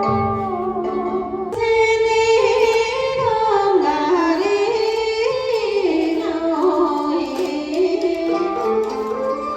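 Traditional Vietnamese music with singing over stringed instruments, the melody sliding up and down. The music changes abruptly about a second and a half in.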